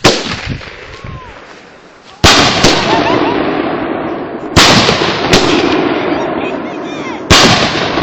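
Aerial fireworks bursting: a loud bang at the start, another about two seconds in, two more a little past the middle and one near the end, each trailing off in a long rumbling decay.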